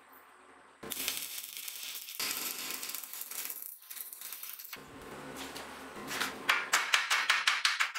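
Hand sanding or rubbing on a workpiece: a rasping hiss that starts about a second in, then quick regular back-and-forth strokes, about five a second, near the end.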